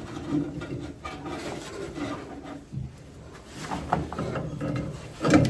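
Irregular scraping and rubbing of metal parts and tools being handled while an old brake line is worked loose, with a sharp knock near the end.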